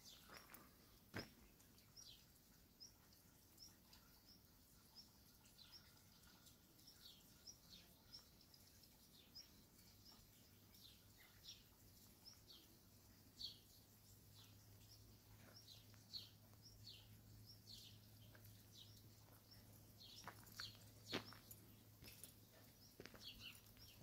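Small birds chirping faintly and repeatedly, short high falling chirps one after another, over quiet outdoor background. A few sharp knocks, and a faint low steady hum from about halfway.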